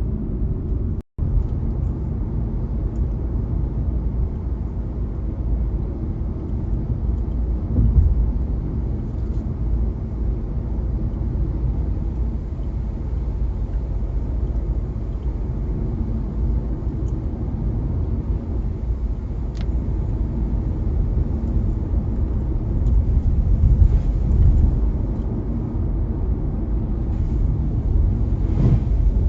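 Steady low rumble of a car driving on wet town streets: engine and road noise, swelling slightly now and then.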